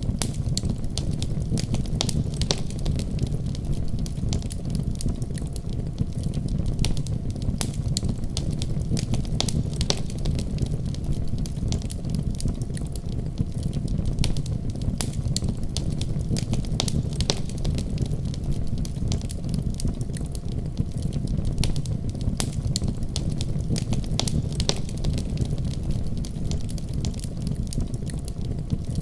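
Wood fire crackling in a fireplace: a steady low rush of burning with many sharp, irregular crackles and pops.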